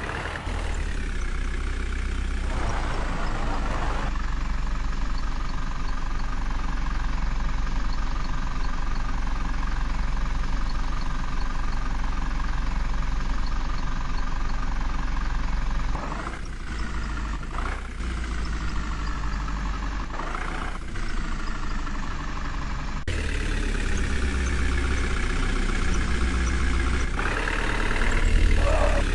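A vehicle engine running steadily, with the sound changing abruptly a few times.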